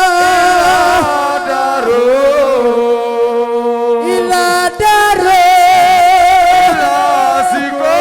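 Amplified singing voice drawing out long, wavering melismatic notes in a chanted religious praise song, with no words recognisable.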